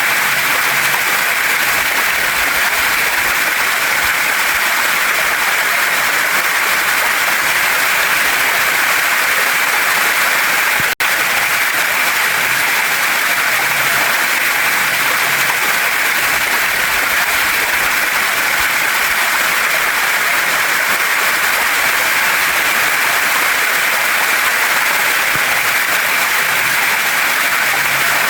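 Steady rush of a waterfall and mountain stream, a dense even hiss of falling and flowing water. It cuts out for an instant about eleven seconds in.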